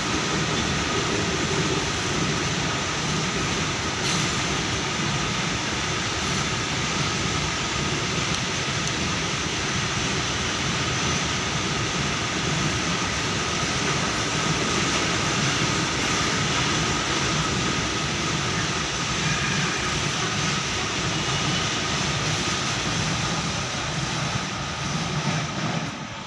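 Train running, a loud steady rumble and hiss with a faint steady whine over it, dropping off right at the end.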